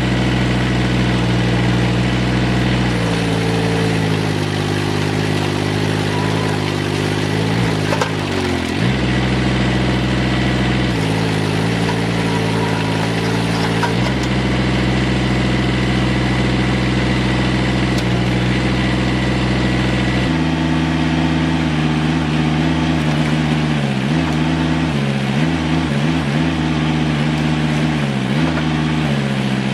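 Off-road vehicle engine running steadily, with the sound changing abruptly several times. In the second half the pitch drops and climbs back again and again as the engine is throttled off and on.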